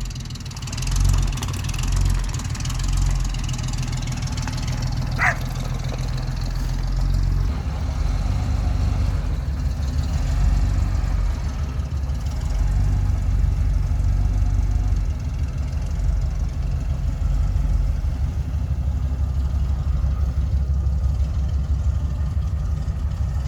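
Hall-Scott 1091 cubic-inch straight-six engine of a 1958 Mack B-21 fire truck running at a steady idle.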